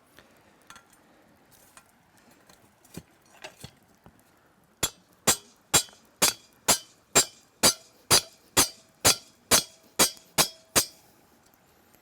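A few faint ticks, then about fourteen sharp clinks, evenly spaced at about two a second, each with a short ringing tone.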